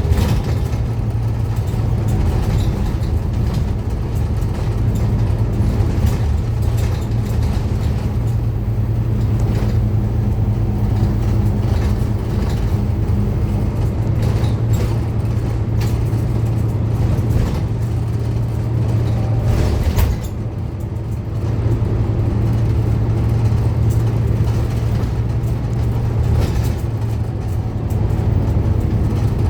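Scania N230UD Omnicity double-decker bus's diesel engine running steadily under way, with rattles from the bus body. There is a sharp knock about twenty seconds in, after which the sound briefly drops.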